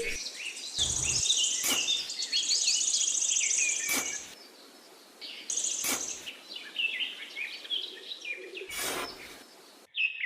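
Small birds chirping and twittering, many quick overlapping calls, with a few short bursts of noise; the chirping thins out for a moment around four to five seconds in.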